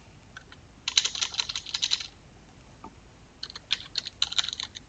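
Computer keyboard typing: two quick runs of keystrokes, one about a second in and one in the last second and a half, with a pause between.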